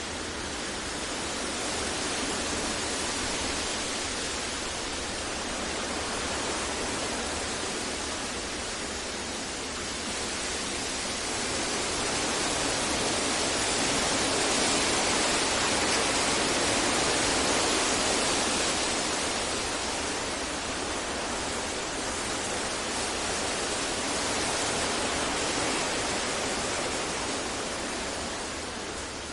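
Steady synthesized masking noise, an even hiss-like rush with no distinct events, slowly swelling and easing in loudness and loudest around the middle.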